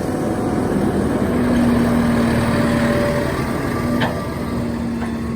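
Tractor engine running steadily while its PTO drives a feed mixer, getting a little louder for a couple of seconds, with one sharp click about four seconds in.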